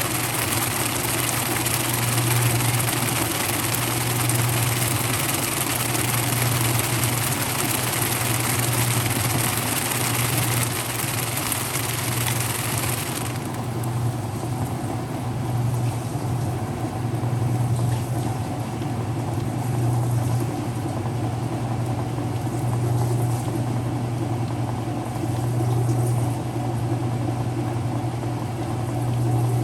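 Whirlpool direct drive washing machine running: a steady low motor hum that swells about every two seconds, with a hiss that cuts off sharply about 13 seconds in.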